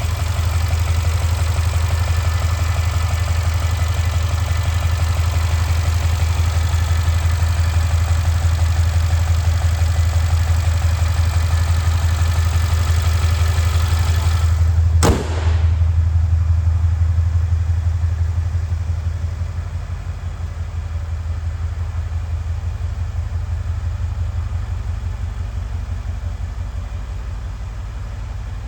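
Mercedes-AMG C63 S V8 idling after a cold start, with a steady low rumble. A single sharp click comes about halfway through; after it the sound is duller, and a few seconds later it grows a little quieter.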